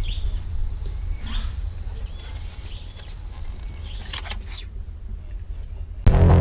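Rural outdoor ambience: a steady high insect drone that stops about two-thirds of the way through, a few bird chirps and a low wind rumble. Electronic music with a beat starts just before the end.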